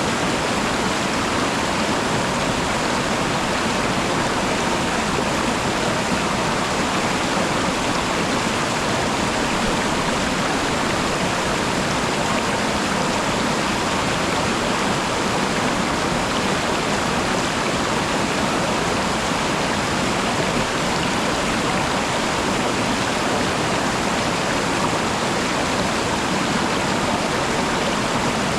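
Waterfall: a loud, steady rush of falling and running water, unchanging throughout.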